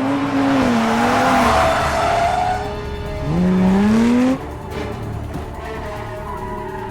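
Sports car engines revving hard, their pitch rising and falling, with tyres squealing. About three seconds in, one engine revs up steeply, then cuts off suddenly at about four and a half seconds.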